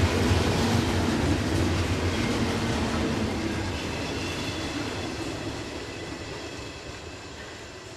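Cars of a double-stack container freight train rolling past on the rails, wheels rumbling with a faint high squeal, the sound fading steadily as the train moves away.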